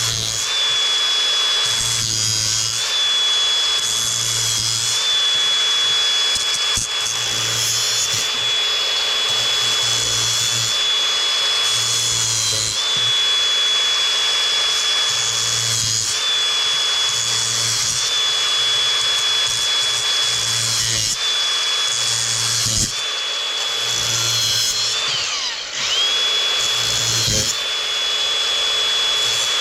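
Electric drill-type power tool running almost without a break, with a steady high motor whine that sags and drops briefly about 25 seconds in before picking back up. A low pulse repeats about every two seconds underneath.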